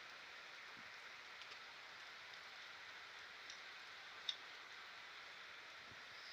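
Faint, steady hiss of a heavy monsoon downpour, with a few light ticks of drops and one sharp tick about four seconds in.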